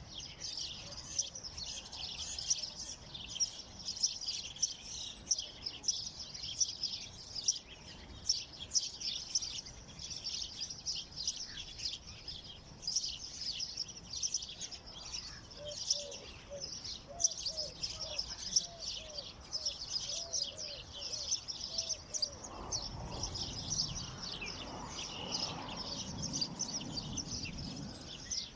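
Many small songbirds chirping and twittering at once, a dense, unbroken chatter of high notes. About halfway through, a lower note repeats two or three times a second for several seconds.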